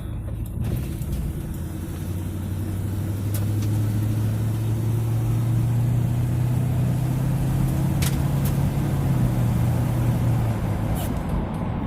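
Ford 302 (5.0 L) V8 of a 1972 Mustang running under way, a steady engine note that grows louder and rises slightly in pitch, then eases off shortly before the end.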